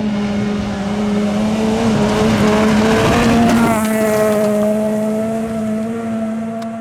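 VAZ 2113 rally car's four-cylinder engine held at high revs as the car goes past, its pitch nearly steady, with tyre noise swelling to its loudest about three seconds in and then fading.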